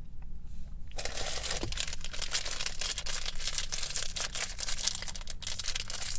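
Plastic snack-bar wrapper of a Nature's Bakery fig bar crinkling and rustling as it is handled and pulled open, starting about a second in.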